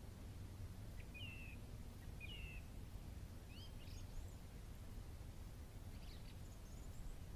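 A wild bird calling with a few short high chirps, spaced a second or two apart, a couple of them rising, over a faint steady low background noise.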